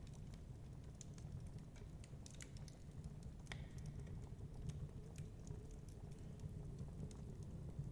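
Wood fire crackling in a fireplace: irregular small pops and snaps over a steady low rumble, with a faint wavering howl of storm wind through the second half.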